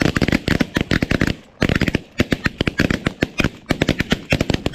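Volley of shotgun fire from several hunters shooting at snow geese: many shots overlapping several times a second, with two brief lulls.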